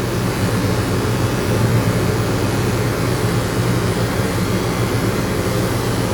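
Electric dog-grooming clippers running steadily, a continuous low hum.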